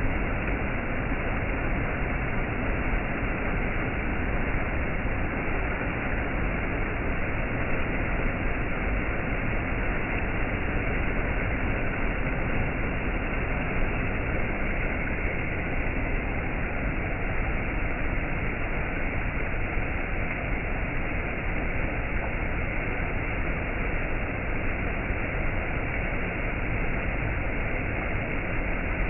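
Waterfall: a steady, unbroken rush of falling water, muffled, with no high hiss.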